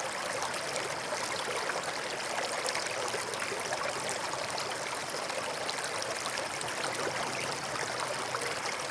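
Forest stream flowing steadily over rocks, with a constant babbling and trickling.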